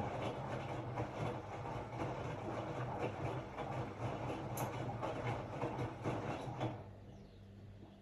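Hotpoint-Ariston RSG 825 J washing machine running, a steady rumble and hum from the drum and motor. About seven seconds in the running sound drops away, leaving a faint low hum.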